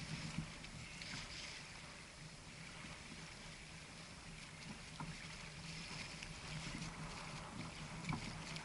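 Faint water and wind noise around a fishing kayak on open water: a steady hiss with a low hum and a few light knocks.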